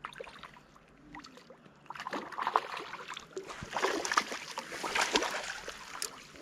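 A hooked trout splashing at the surface beside a fishing kayak as it is brought in, with scattered knocks and clicks against the hull. It is busiest from about two seconds in.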